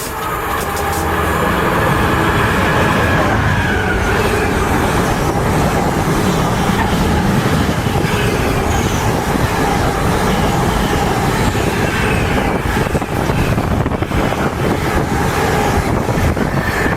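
Train passing on the main line: a loud, steady rush of wheels on rails that builds over the first two seconds and then holds.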